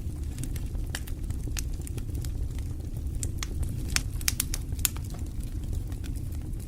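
Wood fire burning in a fireplace: a steady low sound of the flames with many irregular sharp crackles and pops from the burning wood.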